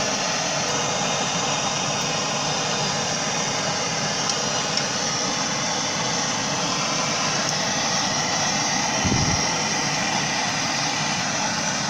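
Blowtorch flame burning with a steady hiss, heating a seized suspension-arm bolt to free it. A short low thump about nine seconds in.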